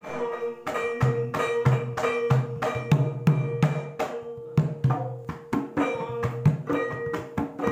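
Javanese gamelan music accompanying a blendrongan dance: kendang drum strokes in a quick, dense rhythm over struck bronze metallophones whose notes ring on between the beats.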